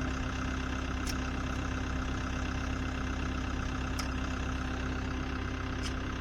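An engine idling steadily, with three brief faint high ticks over it.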